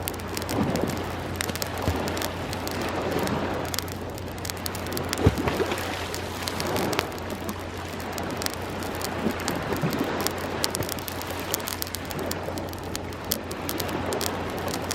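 Wood bonfire crackling and popping, with waves washing in and out on the shore behind it; one louder pop about five seconds in.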